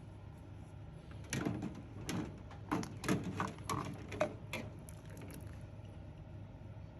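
A quick run of about ten light knocks and clicks, objects handled and set down in a kitchen, over a steady low hum; the knocks stop about halfway through.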